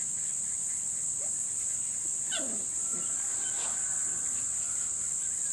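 Tenterfield terrier puppy giving a couple of short whimpers that fall steeply in pitch, a little past halfway, over a steady high-pitched insect chorus.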